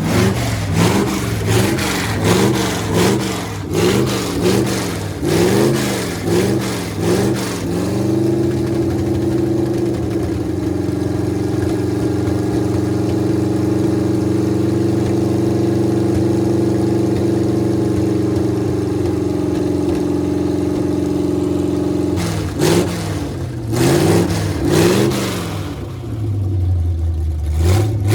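V8 engine of a 1981 Dodge D150 pickup revved up and down again and again, then held at a steady speed for about fourteen seconds, then revved a few more times before its pitch drops low near the end.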